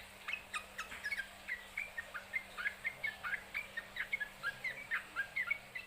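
Yellow-vented bulbul (trucukan) calling in a rapid, unbroken run of short chirps, about four or five a second: the fast 'ropel' singing that keepers want from the bird.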